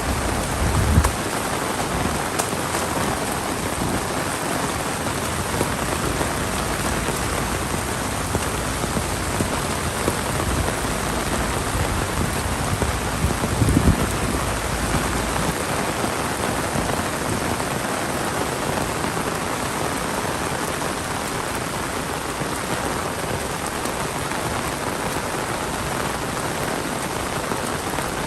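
Heavy monsoon rain pouring steadily, an even hiss of a downpour on the ground and surfaces. Two brief low thumps break through, one about a second in and a louder one about halfway.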